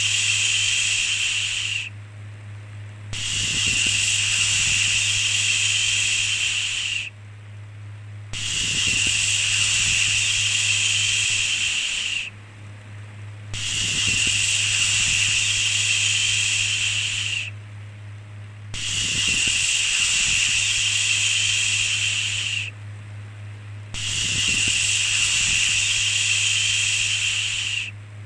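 Repeated long 'shhh' shushing sounds, each lasting about four seconds with a pause of about a second between them, six in a row. A steady low hum runs underneath throughout.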